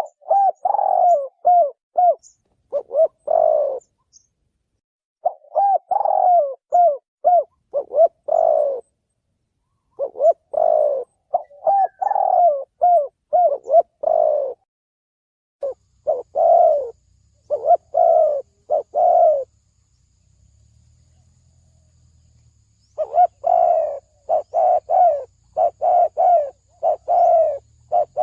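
Spotted dove cooing in repeated phrases of several short coos, each phrase lasting a few seconds with pauses between them and a longer pause before the last. This is a lure call used to draw wild doves in.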